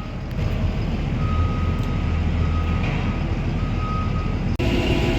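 Engine of a manure-hauling vehicle running steadily with a low rumble, and a thin steady high tone sounding for a few seconds over it. The sound changes abruptly near the end.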